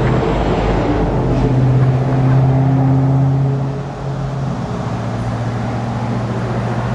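An engine running steadily with a constant low hum over a noisy rush, its pitch shifting slightly a couple of times.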